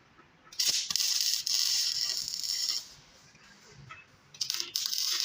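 Two bursts of crackling, hissing MIG welding arc on steel, each about two seconds long, starting and stopping abruptly with short breaks.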